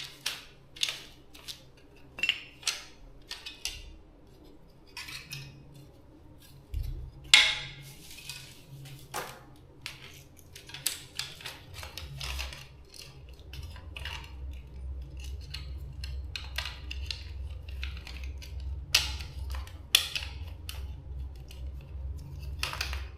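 Small hard parts and tools clicking and clinking as they are handled during repair work. A low steady hum starts about seven seconds in and grows louder from about twelve seconds.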